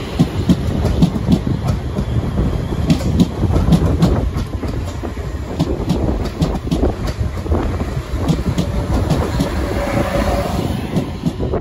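South Western Railway Class 444 Desiro electric multiple unit running past on the near track: a steady rumble of wheels on rail with irregular clicks over rail joints.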